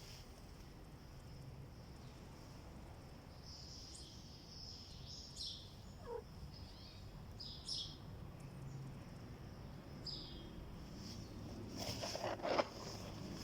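Outdoor ambience: a steady high insect drone with scattered short, falling bird chirps. A brief louder noisy burst comes near the end.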